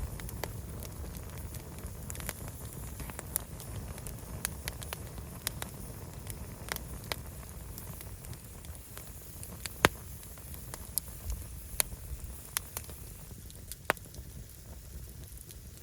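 Wood fire burning, crackling with scattered sharp pops of burning logs over a low steady rumble; the loudest pop comes about ten seconds in.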